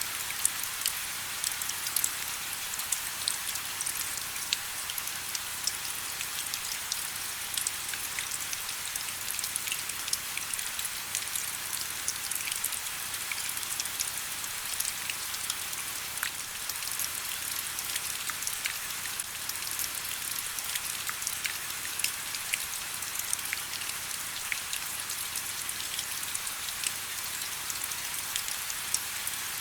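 Steady rain falling, an even hiss full of many small, crisp drop impacts.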